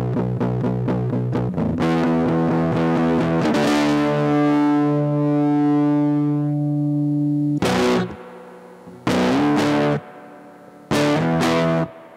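Squier Starcaster electric guitar through a Big Ear Pedals LOAF medium-gain fuzz pedal: quickly picked repeated notes, then a chord left ringing for several seconds, then three short chord stabs, each cut off sharply.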